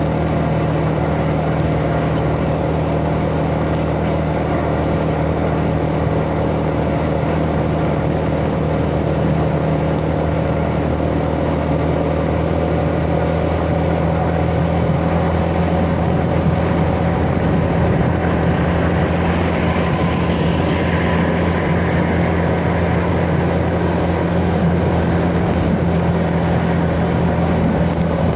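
Yamaha Jupiter Z motorcycle's single-cylinder four-stroke engine running at a steady speed while riding, heard from the rider's position.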